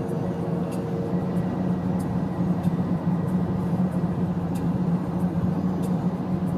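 Badly worn wheel bearing on a 2009 Honda Accord droning as the car drives, a steady low hum over the road and engine noise.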